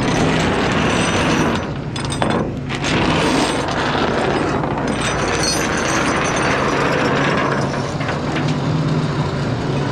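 Winch cable on a rollback tow truck being pulled off the drum by hand with the winch in free spool: the drum turns freely with a steady mechanical noise that dips briefly a couple of times. The truck's engine idles as a low hum underneath.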